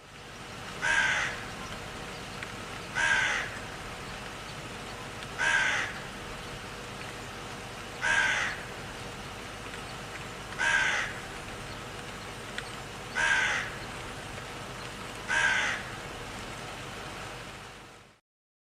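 An animal call, short and harsh, repeated seven times about every two and a half seconds over a steady background hiss.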